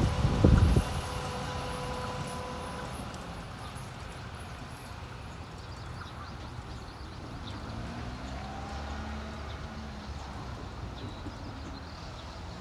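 Tobu 10030-series electric train running away: a quick run of wheel clacks over the rail joints in the first second as its last cars pass, then its running sound fades into a steady low background.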